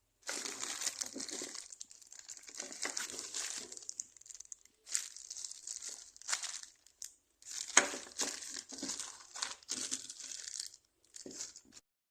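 Crinkly packaging being crumpled and handled in irregular stop-start bursts, with sharp crackles; the loudest crackle comes about eight seconds in.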